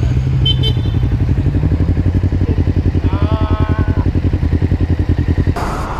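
Motorcycle engine running at low speed with an even, pulsing beat; the engine note ends about five and a half seconds in.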